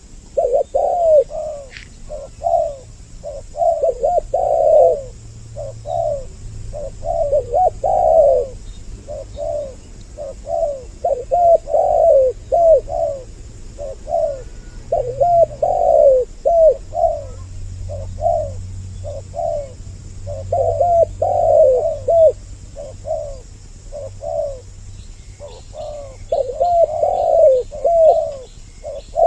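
Spotted doves cooing in repeated, overlapping phrases, two birds calling together as a lure call to draw in males and females.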